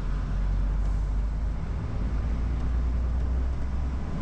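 Articulated lorry's diesel engine running as the truck drives off, a steady low rumble.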